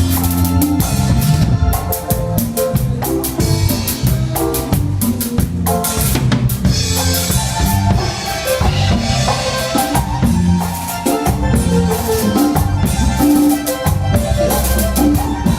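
Live band playing an instrumental passage during a sound check: a drum kit with snare and bass drum keeps a steady beat over bass and sustained keyboard tones.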